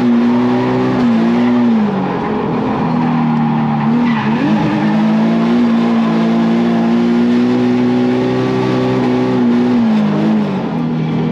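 Nissan 350Z drift car's V6 engine held at a steady high pitch while drifting, with tyres squealing. The revs dip briefly about two seconds in, again around four seconds, and near the end.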